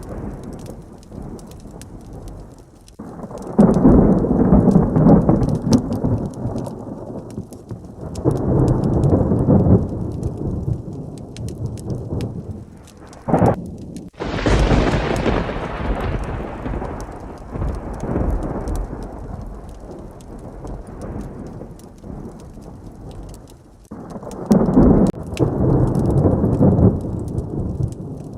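Heavy rain with rolling thunder: several low rumbles swell and fade, and about fourteen seconds in a sharp crack is followed by a loud thunderclap that rumbles away over several seconds. Many small ticks run through it all, from rain and a crackling log fire.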